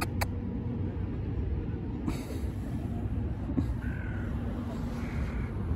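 Two short, faint crow-like caws in the second half over a steady low outdoor rumble, with a brief rustle about two seconds in.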